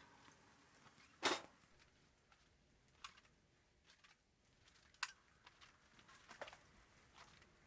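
Near silence broken by four short, sharp clicks spread a second or two apart, the first, about a second in, the loudest.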